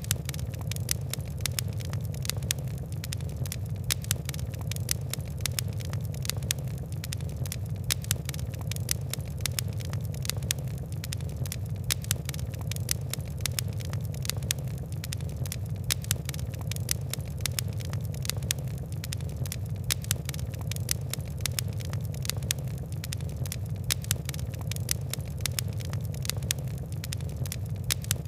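Fire crackling: a rapid, irregular stream of sharp ticks and pops over a steady low rumble of burning.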